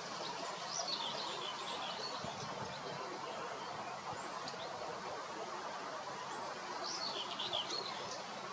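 A bird calling in two bursts of short, high chirping notes about six seconds apart, over a steady background hiss.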